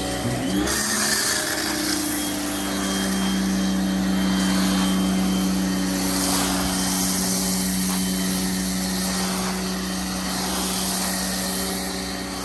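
Pressure washer motor spinning up with a rising whine about half a second in, then running steadily under a hiss of spray as foam is sprayed through a foam cannon.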